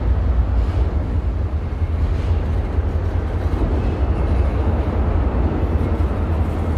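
Freight train rolling past with a steady low rumble as it slows down, a faint thin high tone showing briefly about four seconds in.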